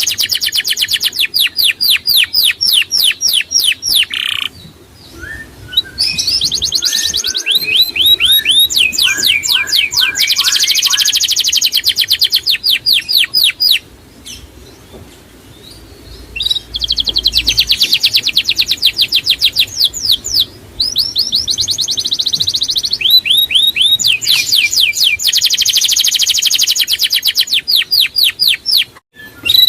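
Songbird singing long, rapid trills of quickly repeated high notes in phrases several seconds long, separated by short pauses, with a few lower notes mixed in near the start of the second phrase.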